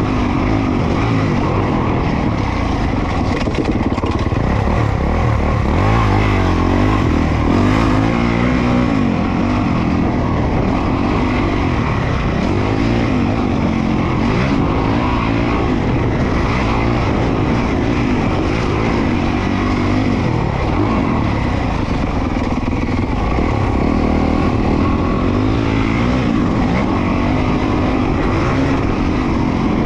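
Honda CRF450R single-cylinder four-stroke motocross bike being ridden hard, its engine revving up and down repeatedly as the rider works the throttle through the gears, over a steady rush of noise.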